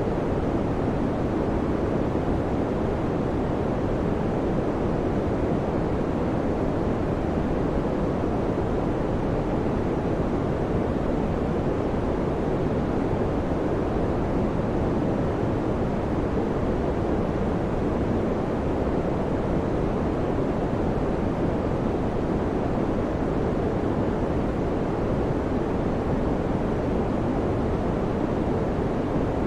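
Electric fan running steadily: an even, unbroken rushing noise, deep and soft with little high hiss.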